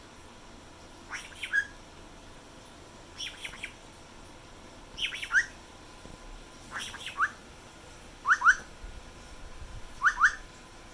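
Black-headed caique calling: short clusters of sharp chirps, repeated six times about every two seconds.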